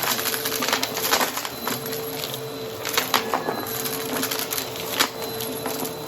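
Brushroll vacuum cleaner running with a steady motor hum while debris crackles and clicks as it is sucked up, with sharper snaps about a second in, around three seconds and near five seconds.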